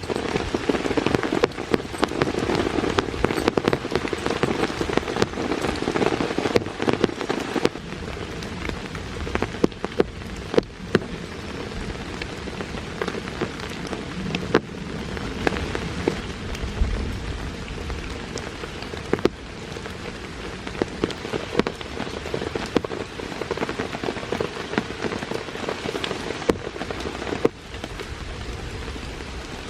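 Steady rain falling, with many separate drops striking close by. It eases a little about eight seconds in.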